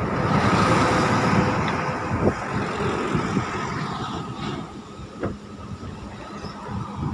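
Aircraft engines passing close by: a rushing noise with a steady whine that swells at once, is loudest about a second in, and fades away over the next few seconds.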